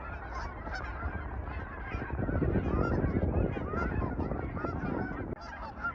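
A large flock of geese honking in a dense overlapping chorus, growing louder with a low rushing sound from about two seconds in as more of the flock takes off.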